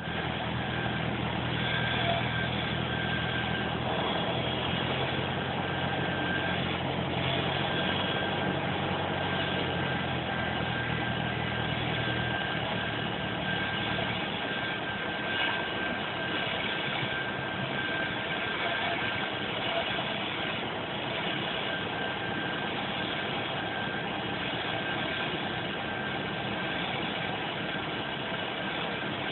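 Cessna 172's piston engine and propeller running steadily under a constant rush of air. The engine's low hum fades away about 12 seconds in as power comes back for the landing.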